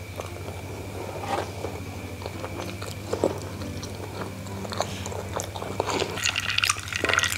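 Close-up chewing of a sticky-rice bakcang (rice dumpling), with many small mouth and wooden-spoon clicks over a steady low hum.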